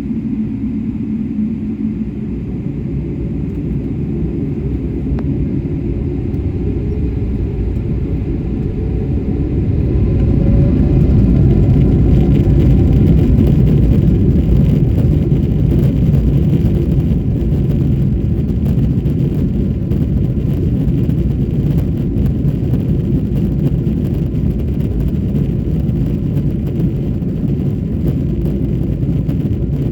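Boeing 777-300ER's GE90 jet engines heard from inside the passenger cabin during the takeoff roll: a whine rising in pitch over the first ten seconds as the engines spool up to takeoff thrust, then a loud steady rumble.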